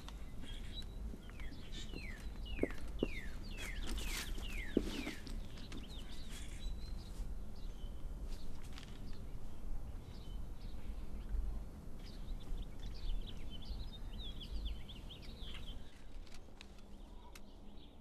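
Songbirds chirping over a steady low background rumble. A run of quick falling notes comes in the first few seconds, and another rapid series of chirps comes about two-thirds of the way through.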